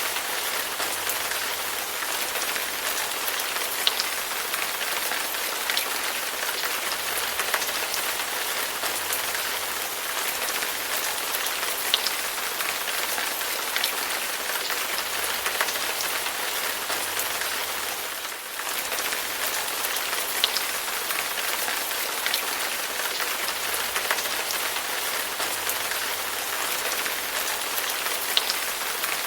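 Steady rain falling, an even hiss with scattered individual drops ticking through it. The level dips briefly a little past halfway.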